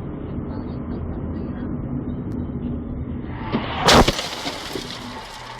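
Steady in-car road and engine noise, then a sudden loud crash about four seconds in: a vehicle collision caught on a dashcam.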